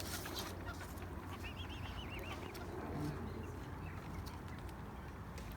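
Lake birds calling faintly: about a second and a half in, one bird gives a quick run of about ten short, high calls, over a steady low background hum.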